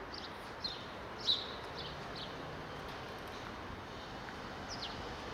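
Small birds chirping: several short, falling chirps in the first two seconds and another near the end, over steady background noise.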